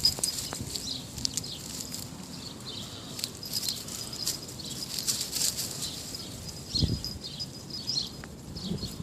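Small birds chirping in repeated short, high notes, with light pattering and rustling, and a soft low thump about seven seconds in.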